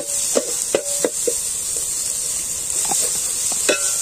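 Onion-tomato masala with spices sizzling in oil in a steel pan, with a steady hiss. A metal spoon scrapes and clinks against the pan as it is stirred: a quick run of strokes in the first second and a half, then a few more near the end.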